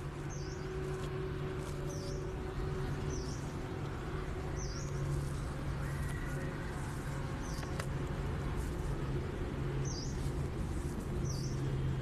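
A bird calling outdoors, repeating a short high chirp that dips and rises, about once a second at uneven intervals. Under it runs a steady low hum.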